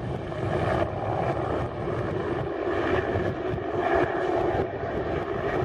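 Eurocopter AS350 Esquilo helicopter in flight: steady rotor and turbine noise.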